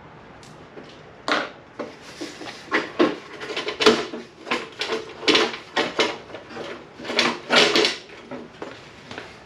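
Irregular clunks, knocks and scrapes of car body parts being worked loose by hand, coming thick and fast for several seconds and dying away near the end.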